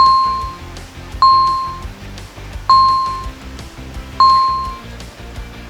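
Background music with a bright, bell-like ding that strikes four times, about every second and a half, each one the same and fading quickly.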